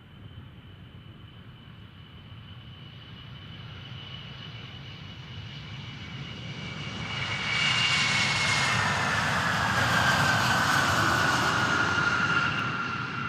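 Jet aircraft flying past. A high turbine whine grows louder and slides down in pitch as the aircraft passes, is loudest over the last few seconds, then begins to fade.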